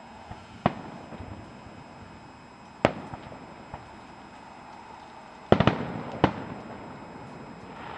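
Aerial fireworks shells bursting: a single sharp bang about a second in, another near three seconds, then a quick cluster of bangs followed by one more, each trailing off briefly.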